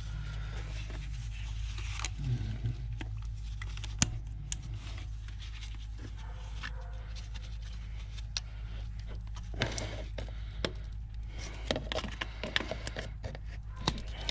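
Light metallic clinks, rattles and scrapes of tools and engine parts being handled, scattered at first and coming thicker in the last few seconds, over a steady low hum.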